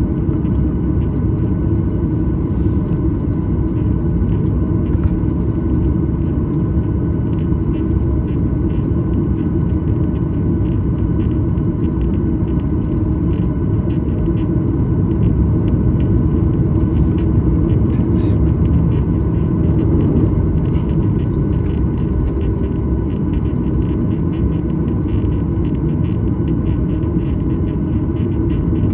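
Cabin sound of a Boeing 737-900ER taxiing: a steady low rumble from the CFM56 engines at idle and the tyres on the taxiway, with faint steady engine whines and small knocks and rattles scattered through it.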